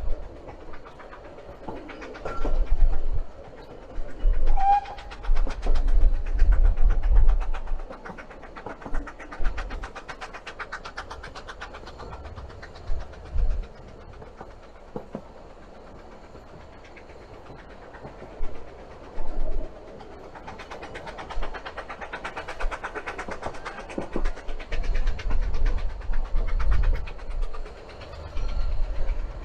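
A railway train running on the rails, with a low rumble and rapid rhythmic clatter that swells in two long louder spells.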